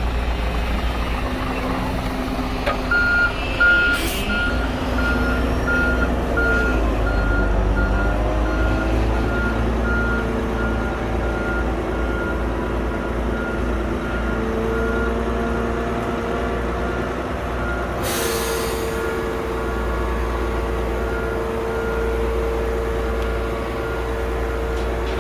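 Shantui bulldozer's diesel engine running under load, its pitch shifting as it works. From about three seconds in, its reversing alarm beeps steadily about once a second. A short hiss of air comes a little past the middle.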